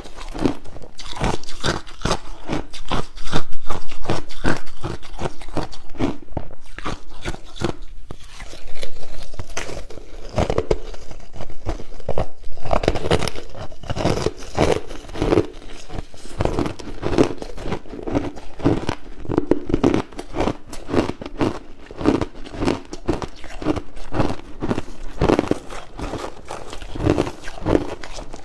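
Crushed ice being bitten and chewed close to the microphone: a dense, rapid run of loud crunches and crackles, loudest about three seconds in and again near nine seconds.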